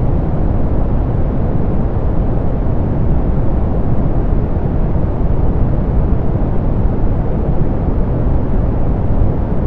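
Steady synthetic pink noise, softened so that most of it sits low: an even, deep rush with little high hiss. It does not change.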